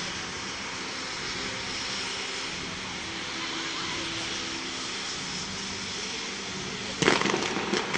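Fireworks display: a steady rushing noise, then about seven seconds in a sudden loud bang followed by a short run of sharp cracks.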